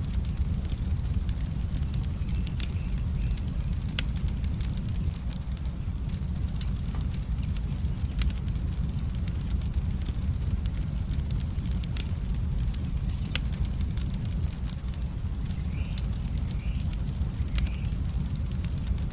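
Wood fire in a fireplace burning with a steady low rumble and irregular sharp crackles and pops throughout.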